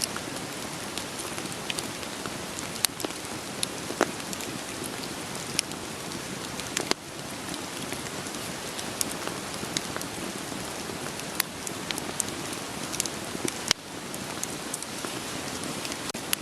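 Steady rain hiss with a wood fire crackling through it: scattered sharp pops and snaps every second or so, a few of them louder.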